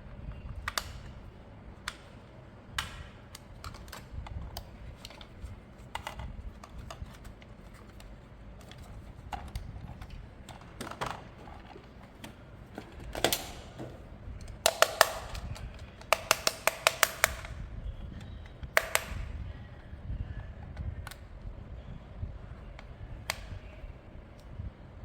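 Hard plastic toy parts and packaging being handled: scattered sharp clicks and taps, with two quick runs of rapid clicking near the middle, over a faint low rumble.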